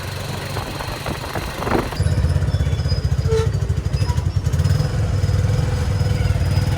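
A motor vehicle engine running steadily with a low drone. About two seconds in the sound changes abruptly to a denser, pulsing rumble.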